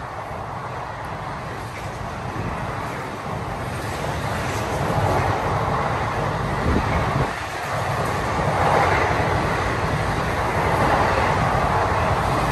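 Train running past on the rails, a steady rumble and wheel-on-rail noise that grows louder over the first five seconds as it nears, then stays loud.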